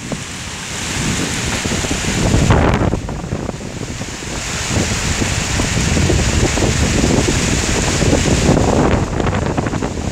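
Strong wind gusting in a rainstorm, with rain falling and wind buffeting the microphone in a low rumble that swells and eases every few seconds.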